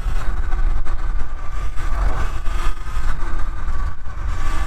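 Segway X160 electric dirt bike being ridden, its motor giving a steady whine under a heavy low rumble of wind on the microphone.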